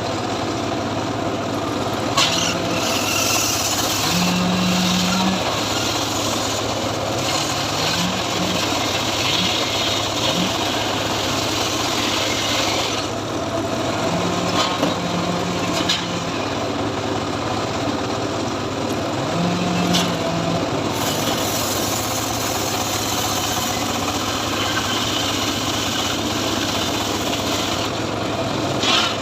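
Engine of a homemade log-ripping saw running steadily while the blade saws through teak. The hissy cutting noise swells and eases in stretches, with a few sharp clicks.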